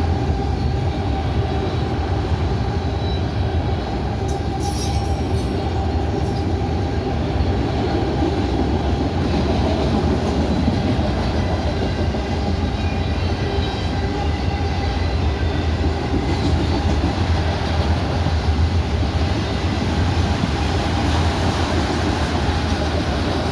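CSX freight train rolling past with a steady rumble of wheels on rail. A brief high screech comes about five seconds in.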